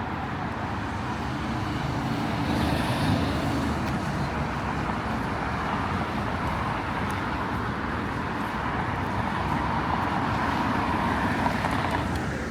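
Road traffic: cars passing on a street, a steady tyre and engine noise that swells twice as vehicles go by, a few seconds in and again near the end.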